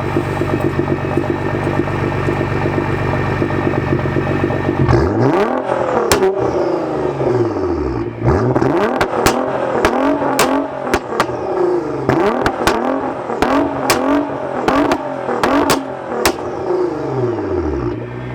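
Nissan GT-R R35's twin-turbo 3.8-litre V6 through a straight-pipe exhaust, holding a steady note at first. About five seconds in it is revved up and down repeatedly, with a string of sharp pops and bangs as the revs fall: the pops-and-bangs map at work. The engine settles back to a steady note near the end.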